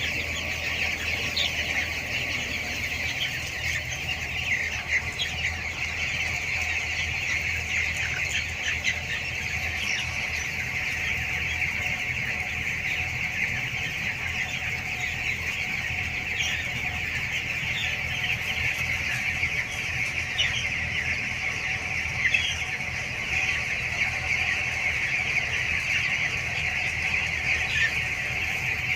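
A large flock of two-week-old broiler chicks peeping and chirping continuously, a dense overlapping chorus, over a steady low hum.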